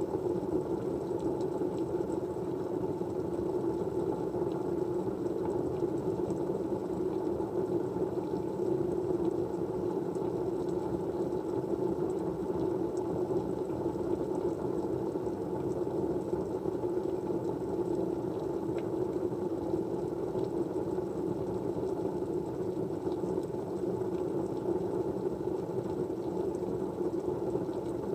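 Steady, even white-noise-style rushing, muffled and low, with no changes.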